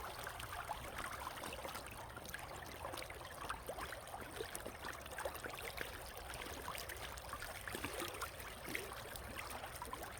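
River water running and babbling steadily, with many small splashes and ripples.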